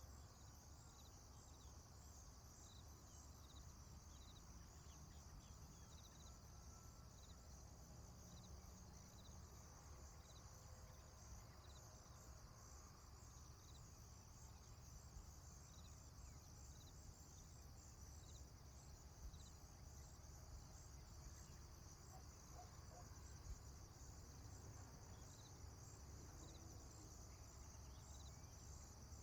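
Faint rural dawn ambience: a steady high chirring of insects with short chirps repeated at even spacing, over a low rumble of wind and background noise.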